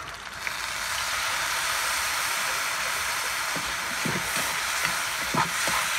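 Soy sauce poured into a hot wok of frying tocino, setting off a loud, steady sizzle. A metal spatula scrapes the wok a few times near the end.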